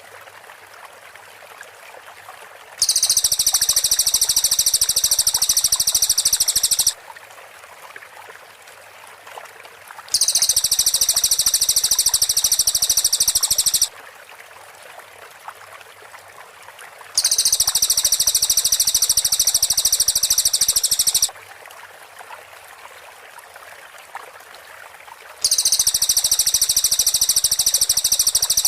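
Cililin song bird delivering dense, rapid-fire high-pitched trills (the 'tembakan rapat' style), in four bursts of about four seconds each with short pauses between. The last burst is still going at the end.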